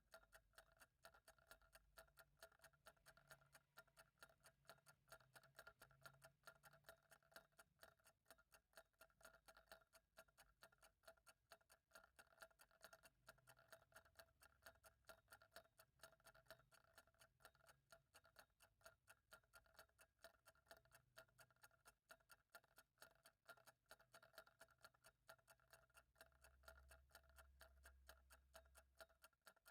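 A clock ticking steadily and faintly, its ticks evenly spaced, over a faint low rumble.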